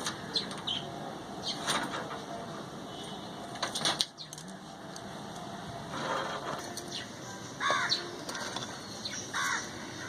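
Steady background hiss with a few short bird calls rising over it at intervals.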